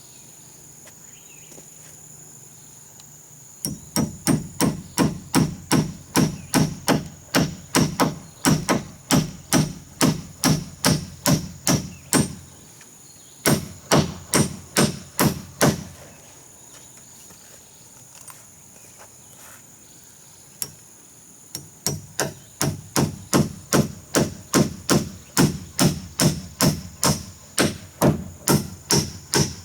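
Hammering on wood: steady hammer blows, about two or three a second, in three runs with short pauses between. A steady high drone of insects runs underneath.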